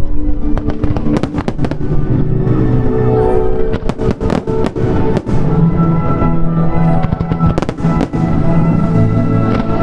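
Fireworks bursting in clusters of sharp bangs and crackles over loud music played for the show.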